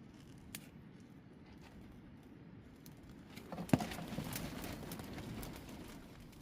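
Cooking-prep handling sounds: a faint click about half a second in, then a sharp knock a little past halfway followed by a couple of seconds of rustling, crackling noise.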